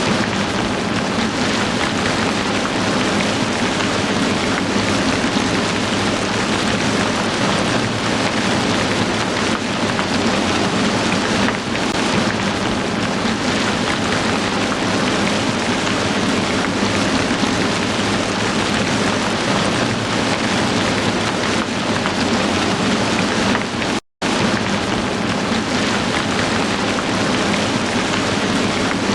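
Heavy rain falling steadily, a dense even hiss of countless drops. It cuts out to silence for a split second near the end.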